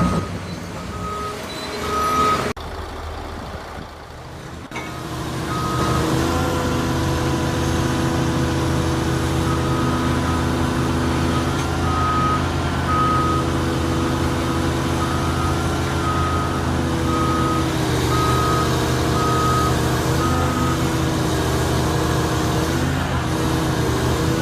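Heavy diesel machinery running steadily while a backup alarm beeps about once a second in several runs. The engine note shifts a couple of times in the latter part.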